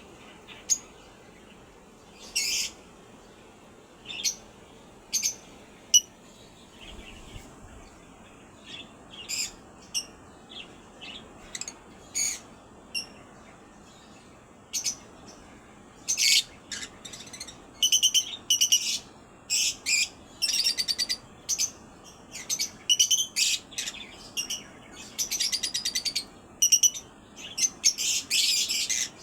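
Small birds chirping: short, high chirps spaced a second or more apart at first, coming thick and fast from about halfway, with a few quick trills near the end.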